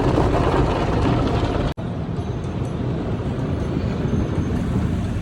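Car wash running: a steady, loud rush of spraying water and machine rumble, which breaks off for an instant about two seconds in.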